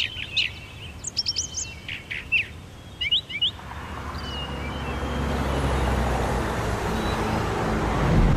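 Birds chirping in quick, high calls. From about three and a half seconds in, a noisy rumbling swell rises steadily and takes over.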